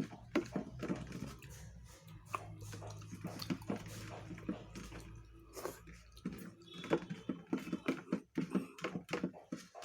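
Close-up eating sounds: a person chewing with the mouth open, with irregular wet smacks, clicks and crunches. A low steady hum runs under the first two-thirds and then stops.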